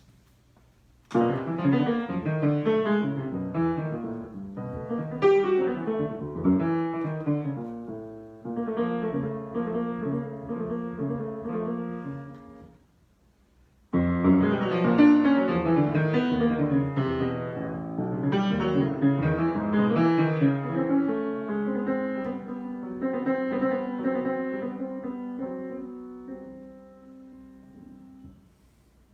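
Solo piano improvisation in chords and melody. It starts about a second in, breaks off for about a second of silence near the middle, then resumes and dies away near the end.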